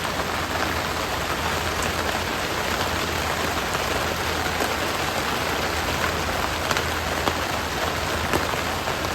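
Steady rain falling, an even hiss with the odd sharper tick of a drop.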